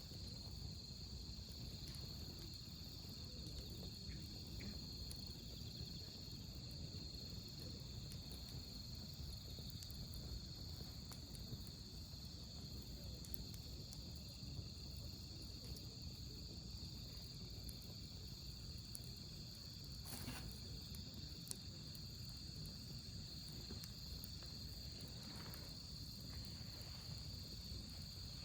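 Crickets trilling steadily in a high, even tone, over the low rush of a wood campfire with a few faint pops, one louder near the twenty-second mark.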